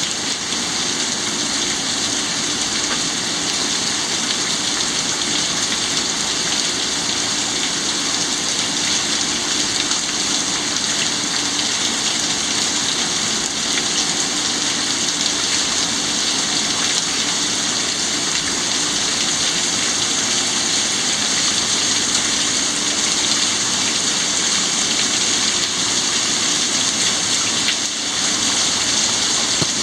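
Heavy thunderstorm rain falling steadily, a dense, even hiss of rain on surfaces.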